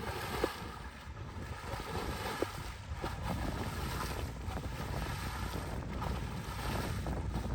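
Wind buffeting the microphone: a steady low rumble with a noisy hiss above it.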